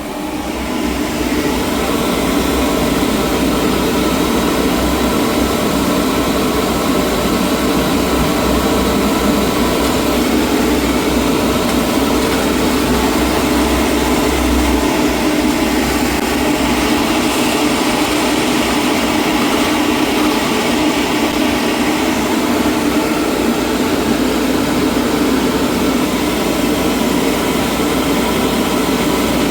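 Gas-fired boiler firing after the pilot lights: a loud, steady roar of burner and blower that comes up about a second in, with a low rumble underneath that fades out about halfway through.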